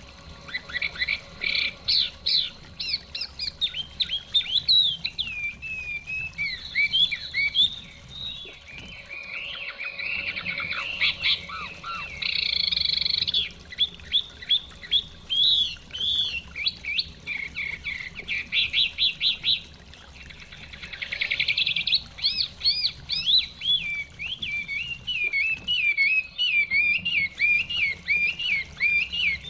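Chinese hwamei (họa mi) singing a long, varied song of rapid whistled phrases and fast trills, pausing briefly twice.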